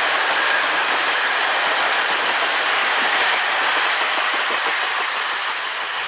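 Limited express 'Hokkai', a diesel train, running past on the line, a steady rumble with wheels clattering over rail joints, the sound beginning to fade near the end.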